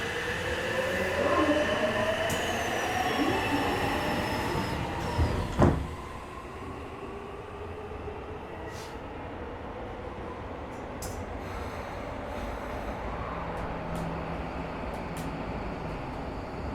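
Tokyo Metro 17000 series subway train braking into a station. Its motor whine rises in pitch as it slows, and it comes to a halt with a jolt about six seconds in. It then stands with a steady low hum and a few scattered clicks.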